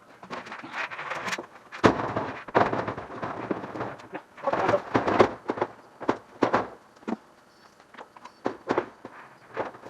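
The sheet-metal drum of a Frigidaire dryer being lifted and worked into its cabinet, with irregular metal clunks, knocks and rattles. The loudest knocks come about two and five seconds in.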